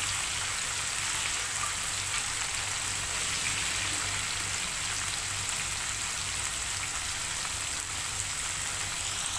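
Chopped tomatoes, onion and garlic sizzling steadily in hot oil in a nonstick wok, an even fine crackle, with a low hum underneath.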